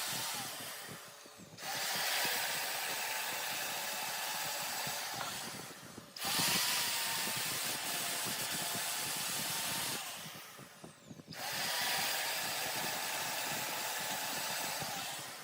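Woodworking power tool cutting wood, a dense hiss of cutting over a steady motor whine. It comes in three long stretches, dropping away briefly twice.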